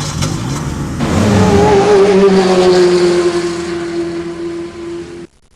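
Car engine revving high and holding the rev, then cutting off abruptly about five seconds in.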